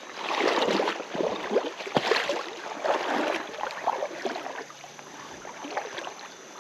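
Creek water sloshing and splashing in irregular bursts as someone moves through it, with a sharp knock about two seconds in; after about four seconds it settles to the quieter steady rush of the creek.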